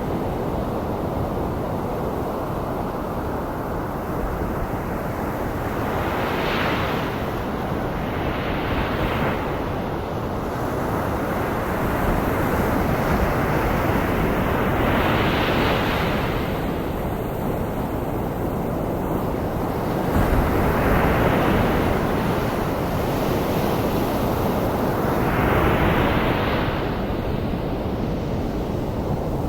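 Ocean surf blended with white noise: a continuous hiss with waves swelling and breaking every few seconds. It is a tinnitus-masking sound.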